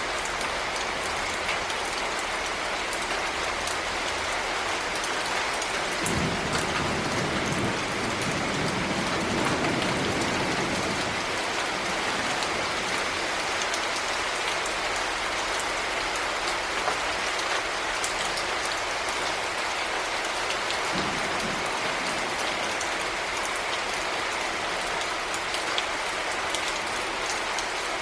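Heavy rain falling steadily, a dense hiss with the ticks of single drops striking a surface. A low rumble swells for a few seconds near the start of the middle and briefly again later.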